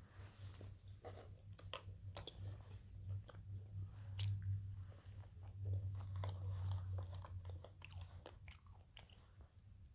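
A person chewing macaroni close to the microphone: many small wet clicks and smacks with no words, over a low hum that swells in the middle.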